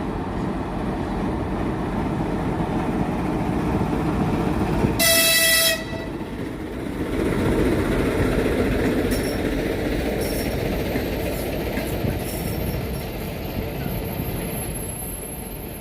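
Steady rumble of a train on the rails, with one short, high-pitched locomotive horn toot about five seconds in.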